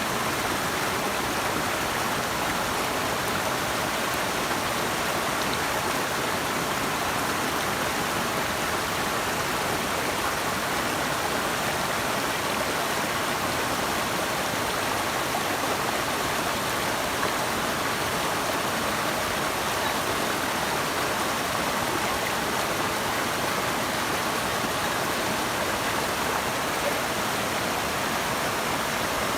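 Running water of a stream or waterfall: a steady, even rush.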